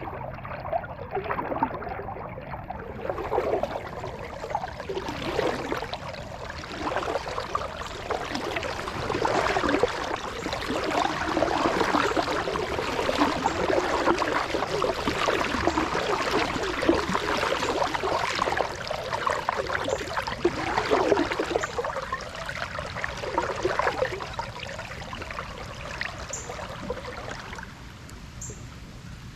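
Water splashing and trickling as a kayak paddle dips and drips. It grows louder through the middle and eases off near the end.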